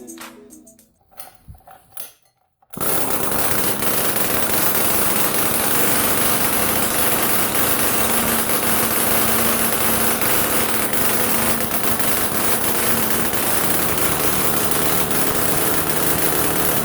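Small two-stroke engine running steadily at high speed. It cuts in suddenly about three seconds in, after a fading stretch of music.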